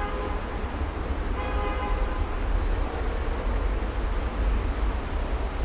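Street traffic noise with a heavy low rumble, and two short, steady vehicle horn toots in the first two seconds.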